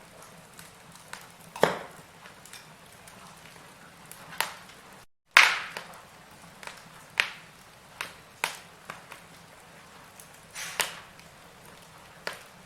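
Firewood burning in a fireplace, crackling, with sharp pops every second or two over a faint hiss. The loudest pop comes about five seconds in, just after a brief cut to dead silence.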